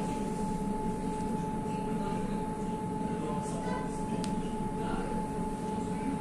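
Electric river tram under way: a steady low hum with a constant high-pitched whine running through it, and a single click about four seconds in.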